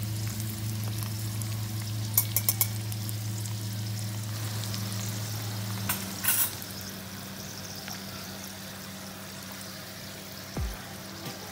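Chicken-and-cheese stuffed chilli bajji frying in hot oil in a pan: a steady sizzle, with a few light clicks of a spatula against the pan about two seconds in and again about six seconds in. A low steady hum runs under the first half.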